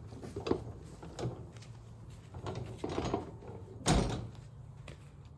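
A series of short knocks and scrapes, with one heavier thump about four seconds in.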